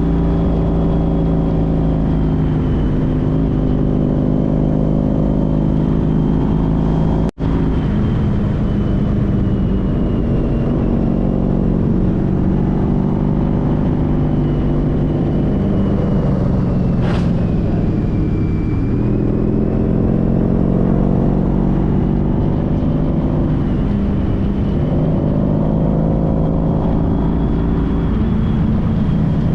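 A 2014 Honda CTX1300's V4 engine pulling the motorcycle along, its pitch rising and falling several times with throttle and gear changes, over a steady rush of road and wind noise. The sound cuts out briefly about seven seconds in.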